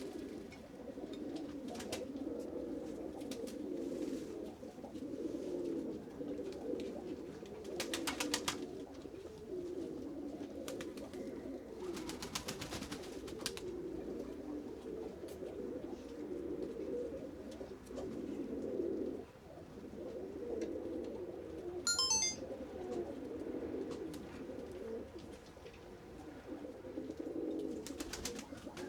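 A flock of pigeons cooing together in a continuous overlapping chorus. Short bursts of rapid clicking stand out about a third of the way in and again near the middle.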